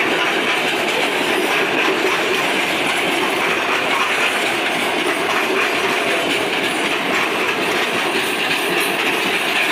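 Loaded freight wagons rolling past close by: a steady, loud rattle and rumble of steel wheels on the rails, with clickety-clack from the wheels over the rail joints.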